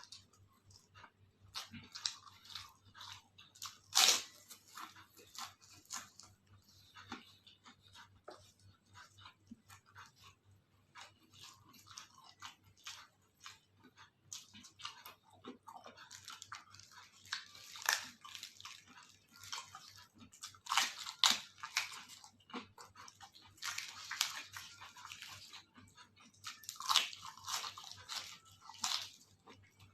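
Close-up crunching and chewing of crisp food, an irregular run of crackly bites with the loudest about four seconds in and denser bursts in the second half.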